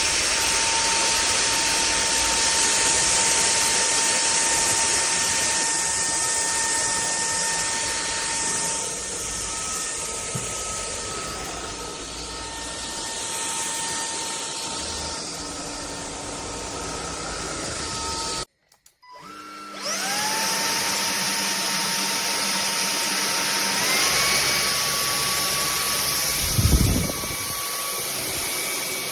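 Cordless stick vacuum cleaner running: the motor spins up to a steady high whine over rushing air. About two-thirds of the way through it cuts out abruptly, spins up again, and steps up to a higher pitch a few seconds later. A short low bump sounds near the end.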